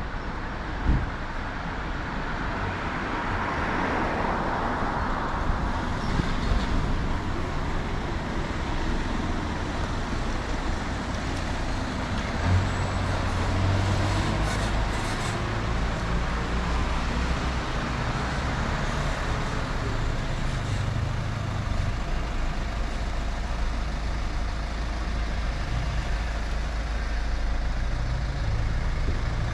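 Road traffic noise: motor vehicles passing, with a steady low engine hum from a heavy vehicle for several seconds in the middle, and a couple of short knocks.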